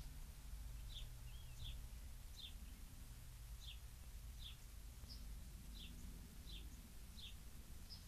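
A songbird calling a steady series of short, high chip notes, each dropping quickly in pitch, about one every 0.7 seconds, over a low background rumble.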